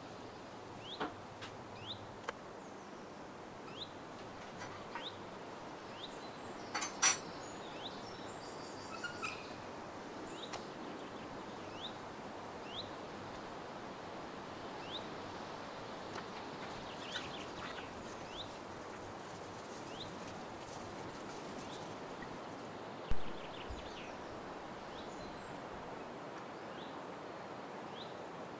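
Small birds chirping: short, high, falling chirps every second or so over a steady outdoor hiss. A sharp click comes about seven seconds in and a low thump about twenty-three seconds in.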